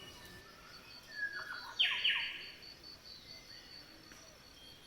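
Rainforest ambience of bird calls: a bird gives a short burst of calls about one and a half to two seconds in, the loudest sound here, over a faint, evenly pulsing high trill.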